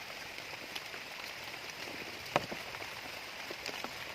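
Steady rain hissing and pattering, with scattered drop ticks and one sharp tap a little over two seconds in.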